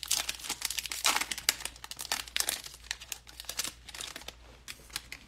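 Foil trading-card pack wrapper crinkling as it is torn open and handled, a dense run of crackles that thins out near the end.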